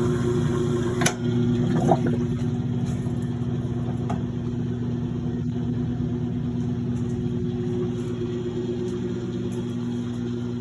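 1950s Maytag wringer washing machine running on its replacement electric motor and belt, a steady hum, with two sharp clicks about one and two seconds in.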